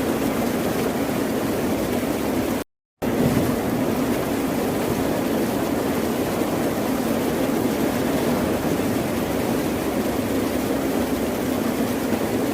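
Ocean surf making a steady, continuous wash with a deep rumble, broken by a brief drop to silence about three seconds in.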